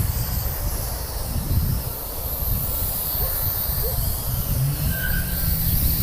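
Wind buffeting the microphone in a steady low rumble, with the thin high whine of a JJRC H33 mini quadcopter's motors above it.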